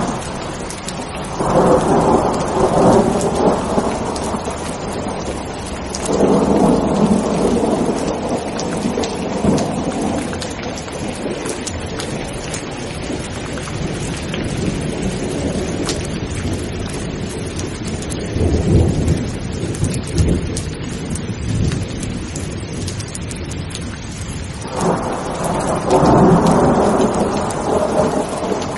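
Steady rain falling, with four rolls of thunder rumbling through it, each lasting a few seconds; the third is deeper and lower than the others.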